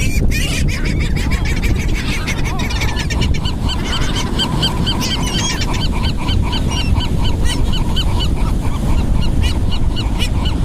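A flock of gulls calling over one another: many short, sharp, repeated calls that grow thick and fast from about a third of the way in. A steady low rumble of wind on the microphone and surf lies beneath them.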